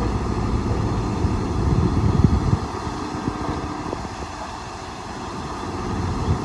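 Diesel engines of heavy earthmoving machinery running, with a few knocks about two seconds in; the sound eases off after that and builds again near the end.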